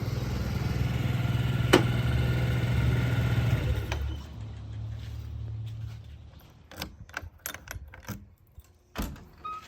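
Diesel engine running steadily with a sharp click about two seconds in; the engine drops off about four seconds in and fades away by about six, leaving scattered knocks and clicks.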